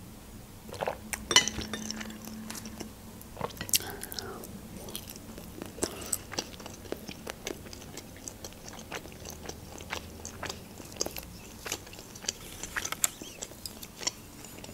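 Close-up mouth sounds of a person chewing pan-fried pelmeni dumplings: many small, irregular wet clicks and light crunches.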